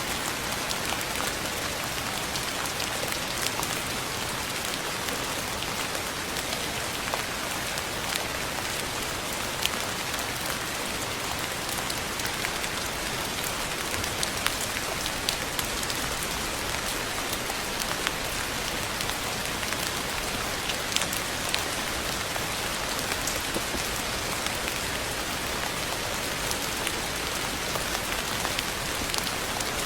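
Steady rain falling, an even hiss with many scattered, slightly louder drop ticks.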